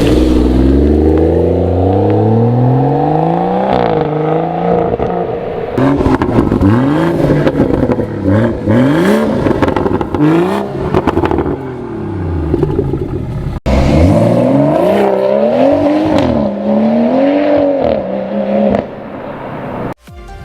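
BMW M140i's turbocharged straight-six revving through a Remus valved cat-back exhaust. Revs climb steadily over the first few seconds, then rise and fall in a string of repeated throttle blips, with a brief break about two-thirds of the way through.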